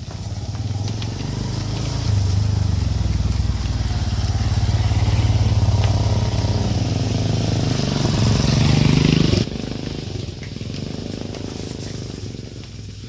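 An engine running steadily with a low hum, its pitch rising shortly before it cuts off abruptly about nine seconds in.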